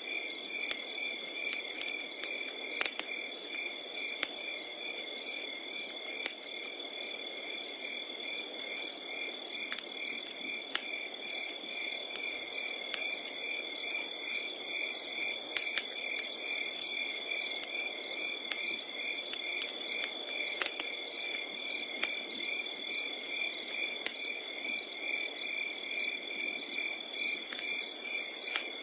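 Crickets chirping in a steady, even rhythm over a continuous high insect trill, with a wood fire crackling in scattered sharp pops beneath.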